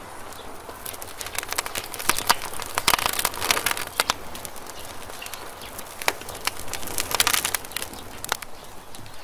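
Wood campfire crackling, with sharp pops that come thickest from about one and a half to four seconds in and again around seven seconds.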